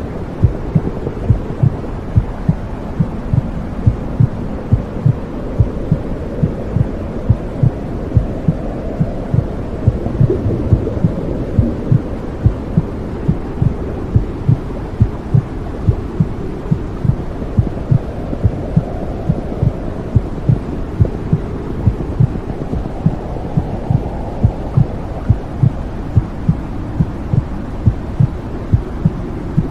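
Womb sound: a steady, regular heartbeat of low thumps over a continuous low whooshing hum, like a mother's heartbeat and blood flow heard from inside the womb.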